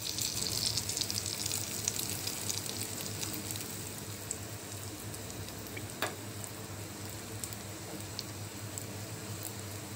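Egg-battered slice of bread frying in a little oil in a hot non-stick pan: a steady sizzling hiss full of small crackles and pops. A single sharp click comes about six seconds in.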